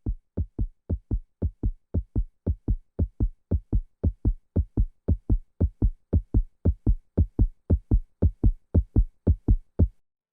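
A steady electronic beat of low, dull thumps, about three a second, which stops just before the end.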